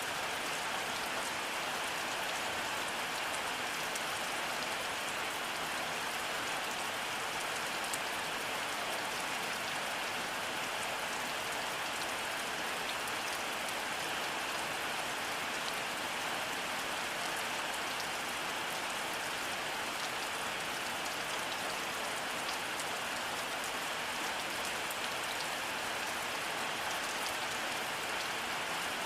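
Steady rainfall: an even hiss of rain with a dense patter of fine drops, unchanging throughout.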